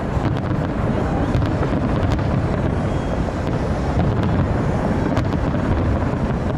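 New Year's Eve fireworks display going off as a dense, continuous low rumble of bursts with scattered sharp crackles, with wind buffeting the microphone.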